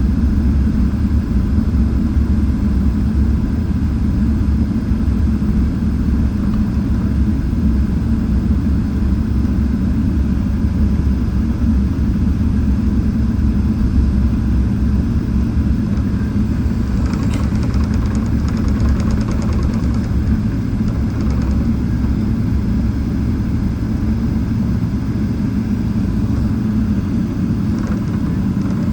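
Steady low rumble of a Boeing 777-300ER's GE90 engines and airframe, with no spool-up or change in power. A faint rapid rattling comes in briefly partway through.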